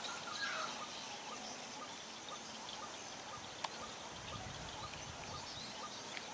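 Faint outdoor ambience: scattered short bird chirps and insect calls over a steady hiss, with one sharp click a little past halfway.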